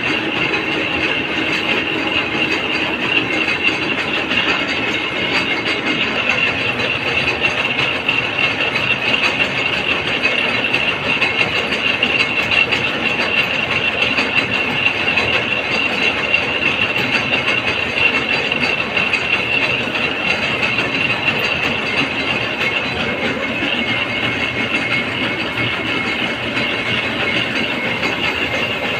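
Metalworking machine running steadily in a workshop, a continuous rapid mechanical rattle with a steady high whine, the kind made while machining or cutting a steel gear.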